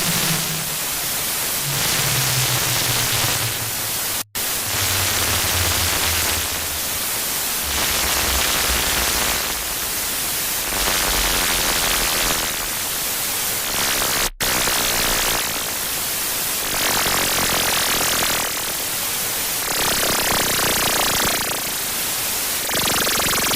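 Harsh noise: loud distorted static hiss that swells and fades about every two seconds, over a low buzzing tone that steps down in pitch during the first dozen seconds. The sound drops out for an instant twice.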